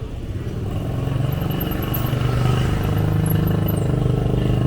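A motorbike engine running steadily and getting louder as it draws near.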